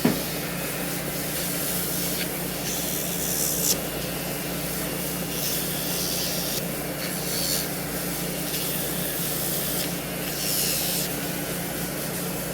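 Show Tech cordless nail grinder running steadily on its low setting, its rotary sanding drum grinding a dog's nail: a steady motor hum with a rasping hiss that comes and goes as the drum is pressed to the nail in short passes.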